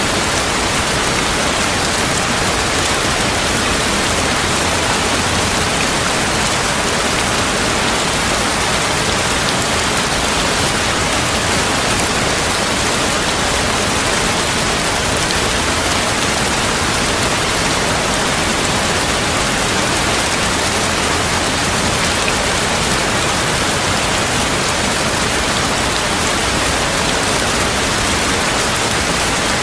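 Steady heavy rain, an even hiss that holds constant with no let-up and no thunder.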